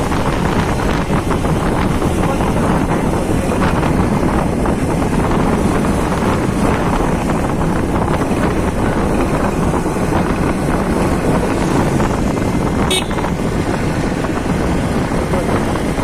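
Wind rushing over the microphone on a moving motorcycle, with steady engine and road noise underneath.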